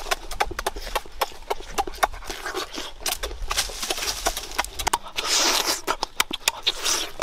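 Close-up chewing and lip-smacking of people eating grilled sausage: a quick, irregular run of wet mouth clicks.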